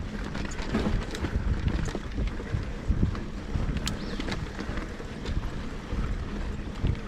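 Mountain bike rolling down a dirt trail: wind rushing over the microphone and tyre rumble, with scattered clicks and knocks from the bike passing over rough ground.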